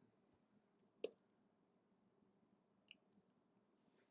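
A few isolated clicks at the computer over quiet room tone: one sharp click about a second in and two fainter ones near three seconds.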